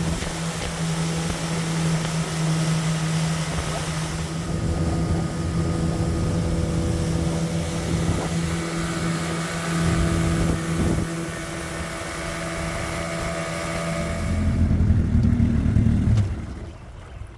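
Boat's outboard motor running steadily under way, with wind on the microphone. Near the end it revs higher and louder, then the sound drops away sharply.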